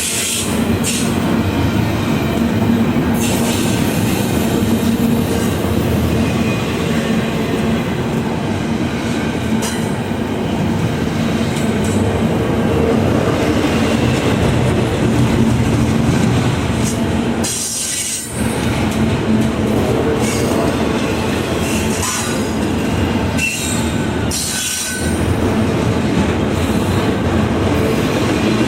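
A train rolling past, its railcars' steel wheels running on the rails in a steady, loud rush, with two brief dips in the noise, about two-thirds of the way through and again near 25 seconds.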